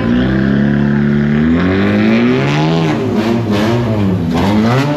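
Car engine revving hard at a standstill: it holds a steady high rev, then is blipped up and down several times.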